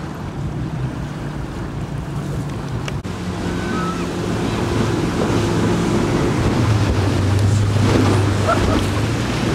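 Wind buffeting the microphone over water noise on a boat, with a steady low motor hum that grows louder through the second half.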